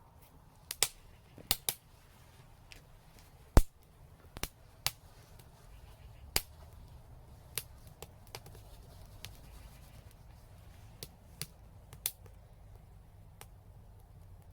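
Fire crackling in a fireplace: irregular sharp pops and snaps, a dozen or so, the loudest about three and a half seconds in, over a faint low rumble.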